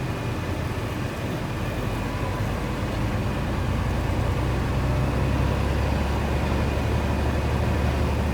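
Diesel engine of a 2000 Freightliner FLD 112 semi truck running steadily with road noise, growing a little louder about three seconds in.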